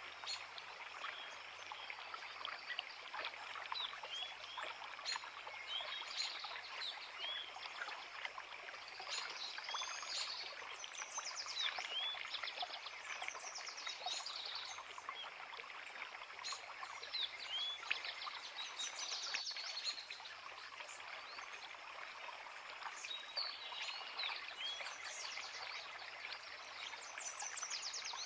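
A creek running steadily, with several songbirds singing over it: short, rising chirps scattered throughout and bursts of rapid trills every few seconds.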